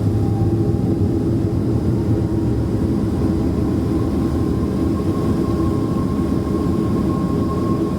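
Steady jet engine and airflow noise heard inside the cabin of a Boeing 767-300ER airliner, a deep even rumble with a faint whine that creeps slightly up in pitch.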